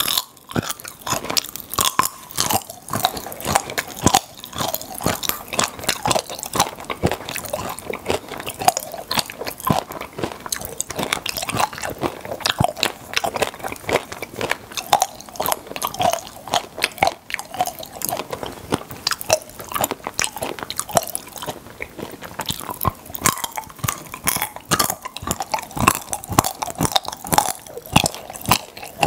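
Close-miked chewing of chocolate filled with popping candy: mouth sounds and crunching under a dense, continuous crackle of tiny sharp pops.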